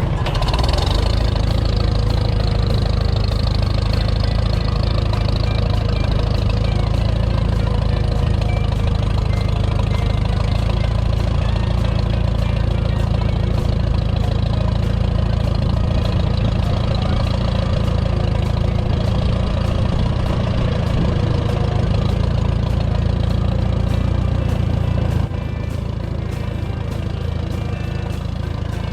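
Tractor engine running steadily, with its strongest sound at the low end. It starts suddenly and drops to a lower, steady level about 25 seconds in.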